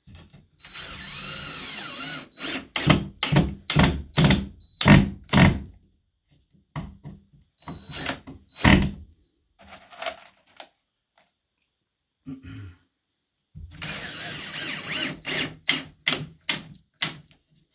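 Power drill driving drywall screws through a drywall patch into wood blocking, in three bouts: the motor runs with a steady high whine, then comes a run of heavy knocks as each screw is driven home.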